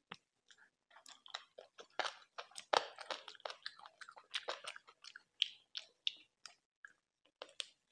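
Close-miked chewing of chicken and rice eaten by hand: a rapid, irregular run of mouth clicks and crunches, busiest about two to three seconds in, with a brief pause near the end.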